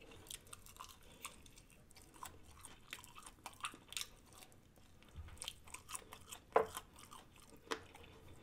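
Close-miked chewing of crispy fried food: irregular crunches while a person eats.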